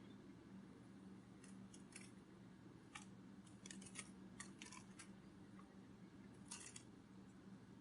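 Near silence: a faint steady hum with scattered faint, short clicks, some in small quick clusters.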